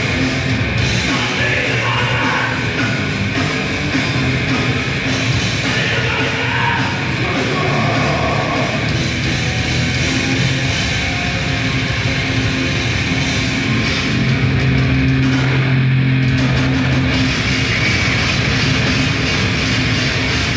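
Grindcore band playing live and loud: distorted guitars, bass and drums in one dense, unbroken wall of sound.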